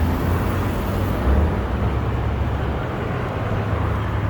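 Car engine idling with a steady low rumble, easing slightly about three seconds in, over general outdoor background noise.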